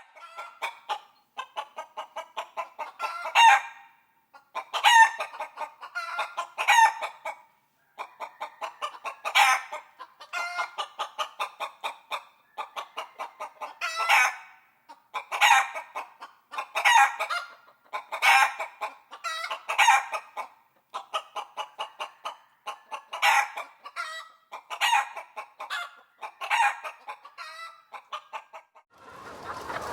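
Chicken clucking in quick runs of short clucks, broken every second or two by louder cackling calls. In the last second an even noise starts.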